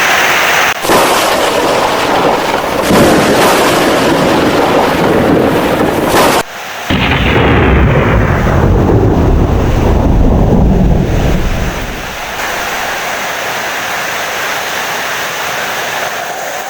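Heavy rain with thunder: a long low rumble of thunder starts about seven seconds in and dies away after a few seconds, leaving steady rain.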